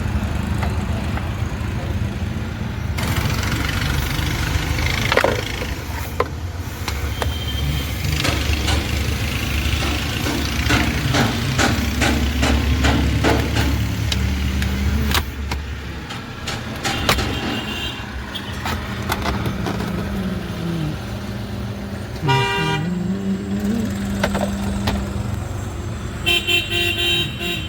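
Road traffic with car horns honking, twice near the end. Through the middle there is a run of quick metallic clicks and rattles from hand tools undoing the instrument-panel housing's fasteners.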